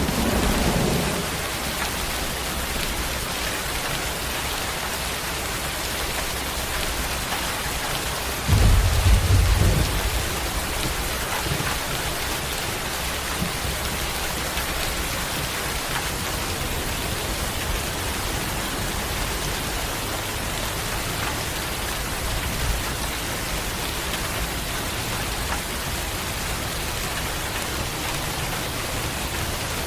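Steady heavy rain falling, with low rolls of thunder: one dying away in the first second and a louder one about eight and a half seconds in, lasting over a second.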